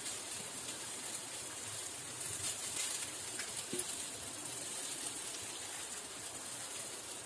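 Mushroom and pumpkin-flower batter fritters sizzling on a hot iron tawa: a steady frying hiss with faint crackles as more dollops are set down.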